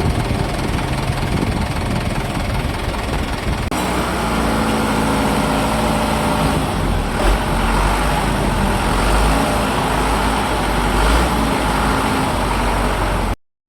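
Truck engine running steadily under a heavy low rumble. The sound changes abruptly about four seconds in and cuts out briefly near the end.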